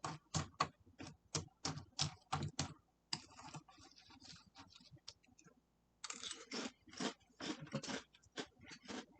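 Close-up chewing of Cinna Graham Toast Crunch cereal with milk: crisp crunches about three a second, turning to softer, quieter crackling in the middle before the regular crunching comes back.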